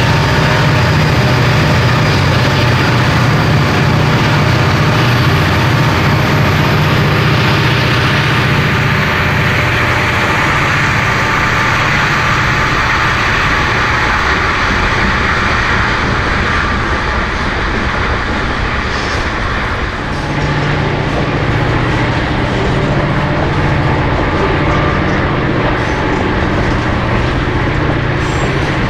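Diesel freight locomotives passing with a deep engine hum, which gives way to a long string of covered hopper cars rolling by with steady wheel-and-rail rushing noise. About two-thirds of the way through the sound dips and changes, and the low engine hum returns under the rolling cars.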